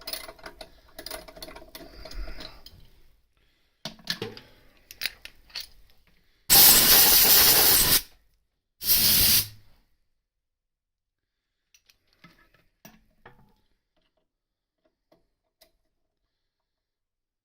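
Two loud blasts of compressed air, one about a second and a half long and a shorter one a second later, typical of an air blow gun clearing swarf from a hole being tapped in a milling machine. Before them comes a run of rapid metallic ticking and clicking from the tap work, and a few faint clicks follow.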